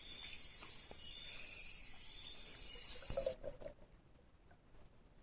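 Night insect chorus, a steady high-pitched trilling of crickets, that cuts off suddenly a little over three seconds in.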